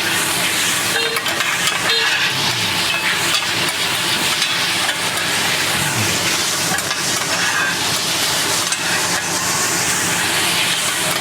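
Rice noodles and egg sizzling steadily as they are stir-fried on a hot teppanyaki iron plate, with a spatula scraping and tossing them on the metal.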